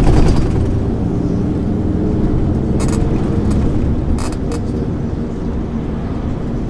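MAN ÜL 353 bus engine running under way, heard on board, with a steady low rumble and a few short clicks or rattles from the bus body. Near the end the engine note slowly falls.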